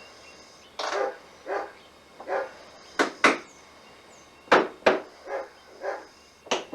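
A hammer tapping small nails into wooden beehive frame parts: about ten irregular sharp taps, some hard and some lighter.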